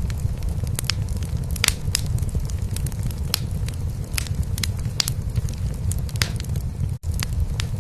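Wood fire crackling in a fireplace, with irregular sharp pops and snaps over a steady low purr of a cat. The sound cuts out for an instant about seven seconds in.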